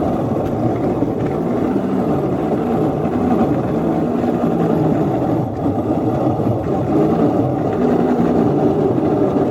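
Engine of a small 7½-inch gauge ride-on locomotive running steadily under heavy load as it pushes along snowy track, a continuous low drone.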